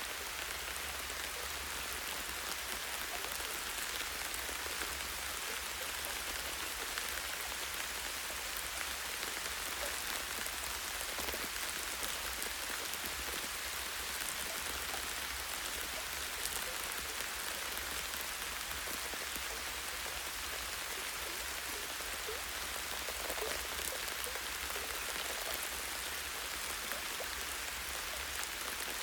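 Light rain falling steadily, drops landing on a tree branch.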